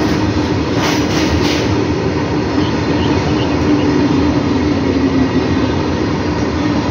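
Goods train of open hopper wagons rolling past at speed: a loud, steady rumble and rattle of wheels and wagon bodies, with a held tone in it and a few sharper rattles about a second in.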